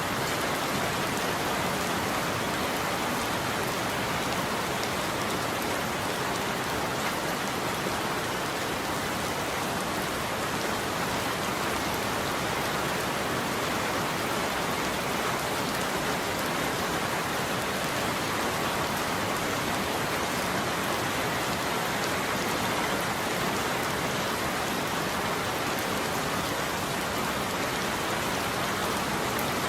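Steady rain falling on a roof, an even unbroken hiss with no thunder.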